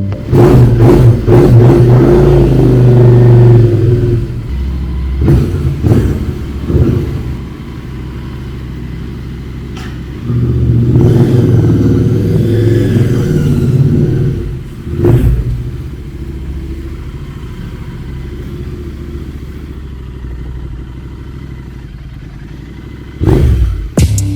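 Royal Enfield Interceptor 650's 648 cc parallel-twin engine idling through aftermarket Red Rooster twin exhausts and being revved repeatedly: a long rev at the start, short blips a few seconds later, another long rev about halfway, and a sharp blip near the end, settling back to a steady idle in between.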